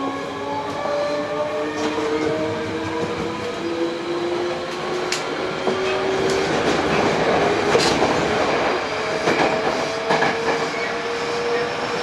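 Hankyu 8000 series train's Toshiba GTO-VVVF inverter and traction motors whining from inside the car, their tones rising steadily as the train gains speed, over wheel and rail noise with sharp clicks from rail joints. About seven seconds in the running noise grows rougher, then a single tone climbs slowly again.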